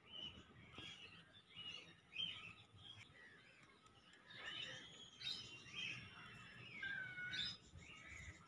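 Small birds chirping faintly, with several whistled notes that slide up and down in pitch about halfway through.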